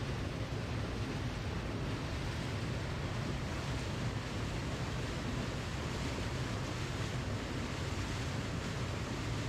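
Waterfall: steady rushing of falling water, an even roar with no breaks.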